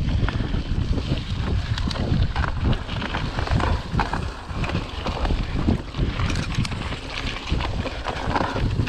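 Wind buffeting the microphone of a camera carried on a moving mountain bike, with irregular short knocks and rattles from the ride over rough ground.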